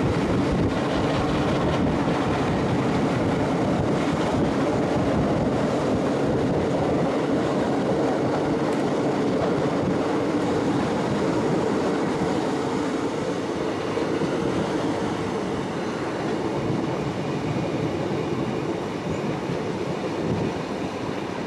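Diesel train running along the line, heard from on board: a steady engine and transmission hum over the rumble of wheels on rail, a little quieter from about halfway through.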